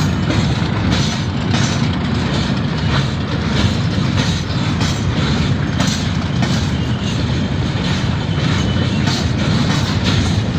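Train passing close by: a steady low rumble of wheels on the rails, with repeated clacks as the wheels cross rail joints.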